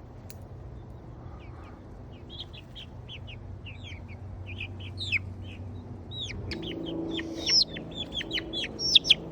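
Young Copper Marans and olive egger chickens peeping: short high chirps that fall in pitch, sparse at first and growing denser and louder in the last few seconds, over a steady low hum.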